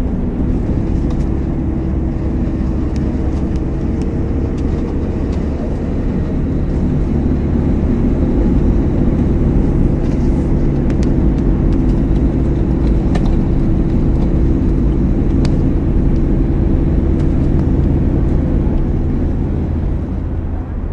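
A car engine running at a steady speed, a continuous low drone with a steady hum in it, growing a little louder about eight seconds in. Faint scattered ticks come through now and then.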